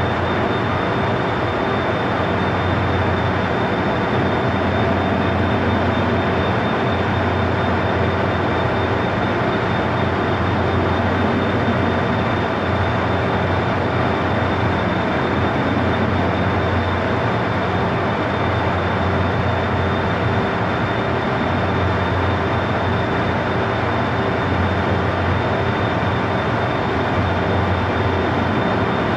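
KTX-I high-speed trainset standing at the platform with its onboard equipment running: a steady hum with a thin constant whine above it, unchanging throughout.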